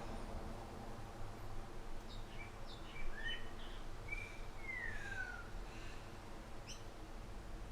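Outdoor backyard ambience: a steady low rush of breeze with a few bird calls over it. There are several short chirps about two to three seconds in, then a longer whistled note that slides downward, and a quick upward chirp near the end.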